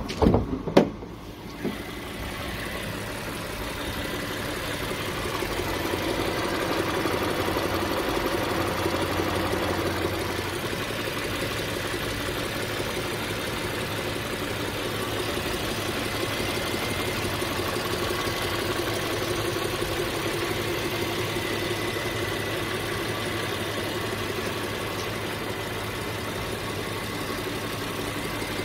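A few sharp knocks about a second in, then the Audi A6 3.0 TFSI's supercharged 3.0-litre V6 idling steadily with the bonnet open.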